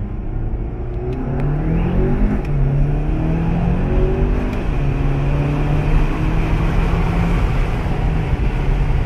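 2019 VW Jetta GLI's turbocharged 2.0-litre four-cylinder, with a catted aftermarket downpipe and stock exhaust, accelerating hard, heard from inside the cabin. The engine note rises, drops at an upshift about two seconds in and again about four and a half seconds in, then runs steadier and louder.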